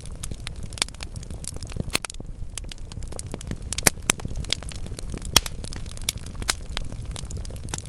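Wood logs burning in a fireplace, crackling with frequent irregular pops and snaps over a low steady rumble of the fire. A couple of louder snaps come about four and five and a half seconds in.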